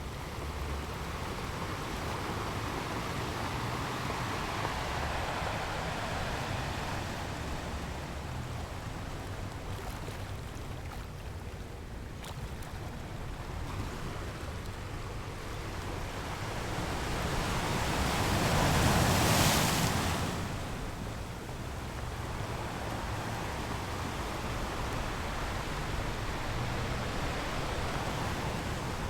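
Sea surf washing onto a sandy beach in a steady wash, with one bigger wave building and breaking about two-thirds of the way through.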